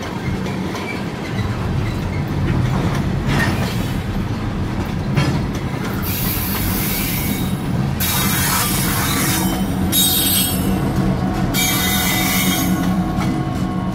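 Kansas City Southern de México freight train rolling past: a steady rumble of wheels on the rails, with high wheel squeal coming and going in stretches over the second half.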